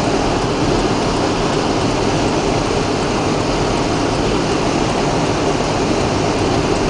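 Strong wind howling around a moving car in a blizzard, heard from inside the cabin as a steady rush over the road noise.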